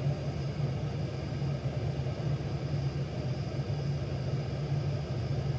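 Handheld torch flame running steadily with a low, even rumble, played into a diesel heater's burn chamber to burn off moisture and leftover starting fluid.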